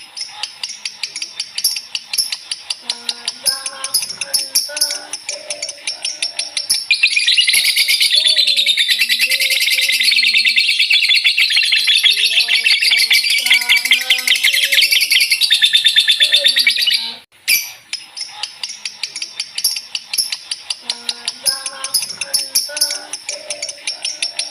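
Lovebird 'ngekek' song: a fast, rapid-fire, high-pitched chatter. About seven seconds in it builds into one long, loud, unbroken chatter lasting about ten seconds, which cuts off suddenly, and then the bird carries on in shorter rapid phrases.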